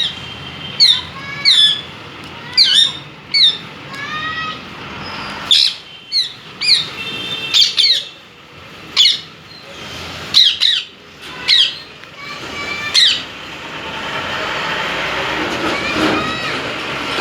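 Indian ringneck parakeet giving about fifteen short, sharp squawks at irregular intervals. In the last few seconds a steady noise builds up underneath.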